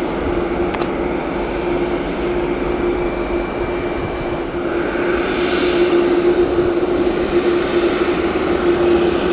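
Turbofan engines of a Boeing 747-8F freighter (four GEnx-2B67s) running: a steady hum over a continuous jet rush. The rush grows louder and brighter about halfway through.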